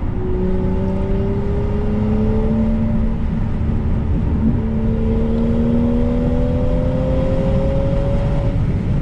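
A car engine accelerating hard, its pitch rising for about three seconds, dropping at an upshift, then rising again through the next gear, over steady road rumble.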